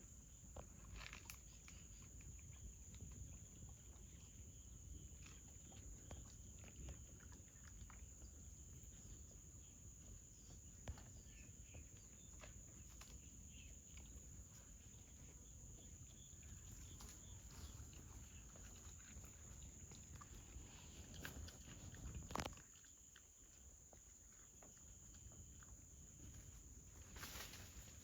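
Faint outdoor ambience: a steady high-pitched drone with a low rumble beneath, scattered small clicks and rustles, and one louder brief rustle about 22 seconds in.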